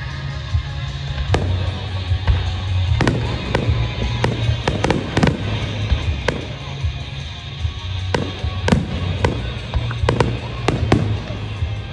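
Fireworks going off in a display: many sharp bangs and crackles, in quick clusters about three to five seconds in and again near the end. Music with a heavy bass line plays loudly under them throughout.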